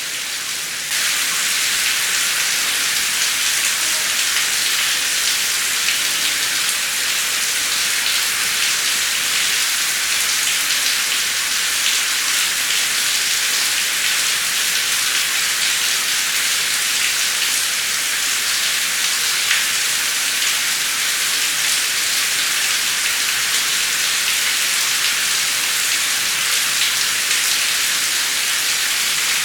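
Heavy rain falling steadily, a dense hiss of countless drops with no thunder. It steps up in loudness about a second in and then holds even.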